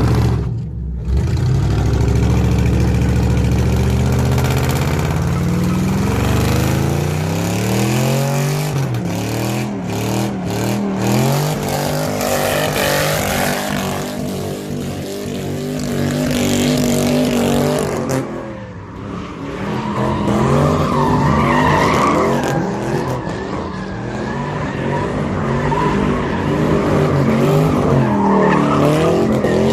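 Car engine revving up and down with tires squealing and skidding, as at a sideshow donut: the engine pitch climbs over the first several seconds and then keeps rising and falling, with a loud stretch of tire noise in the middle.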